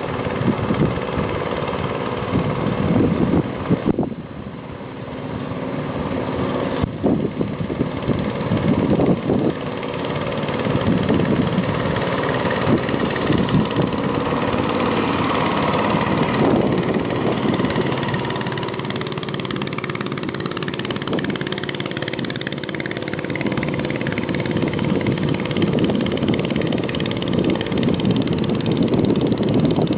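Small boat engine running steadily on a 10-foot boat under test, dipping in loudness about four seconds in and then picking up again.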